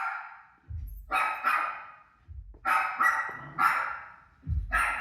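A dog barking in short, sharp barks, about six in five seconds, with low thuds just before several of them. The dog is barking back at a TV playing a recording of its own barking, so some barks may come from the TV.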